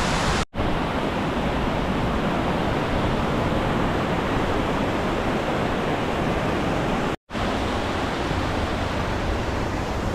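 Steady rush of falling water from the lower falls of Stanley Ghyll, broken twice by brief drops to silence, about half a second in and about seven seconds in.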